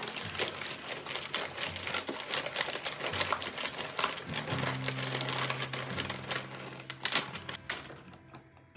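Dry lentils or grains poured into a glass storage jar: a dense rattling patter of many small clicks that thins out near the end.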